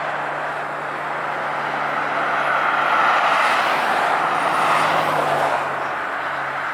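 A car driving past: its engine and road noise swell to a peak about three to five seconds in, then fade away.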